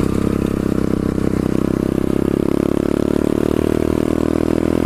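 Pit bike's small single-cylinder engine running at a steady pitch while being ridden.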